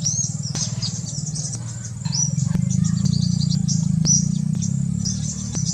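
Many small birds chirping rapidly in short, high calls, over a steady low hum.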